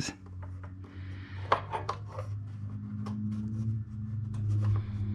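Small metal parts and tools handled by hand: scattered light clinks, taps and rubbing, over a steady low hum.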